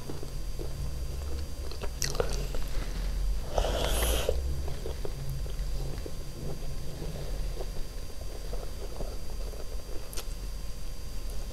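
Close-miked chewing of hand-fed mouthfuls of chicken biryani, with soft wet mouth sounds and a few faint clicks. A short noisy burst comes about four seconds in.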